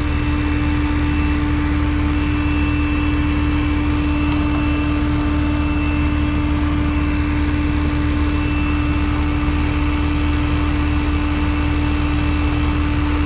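An electric motor running steadily, with a constant whine over a low hum.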